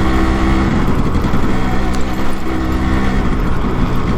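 Yamaha RX 100's two-stroke single-cylinder engine running steadily at an easy cruising speed, heard from the moving bike with a low rumble underneath.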